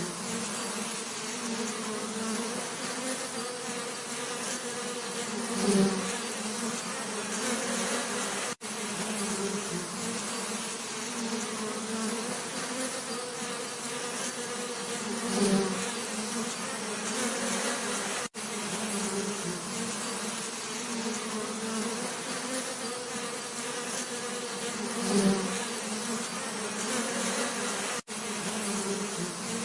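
Bees buzzing continuously in a steady, low hum, with one bee passing close and louder about every ten seconds. The recording repeats on a loop of about ten seconds, with a split-second gap at each join.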